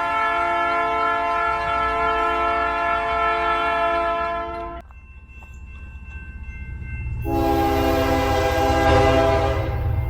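Diesel locomotive air horn on an approaching freight train: a long blast that cuts off about halfway through, then a second blast a couple of seconds later, while the low rumble of the locomotives grows louder as the train nears.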